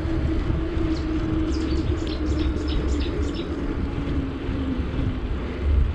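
Wind buffeting the microphone and a steady hum from a bicycle ride in motion, with a run of quick, short high ticks between about one and three and a half seconds in.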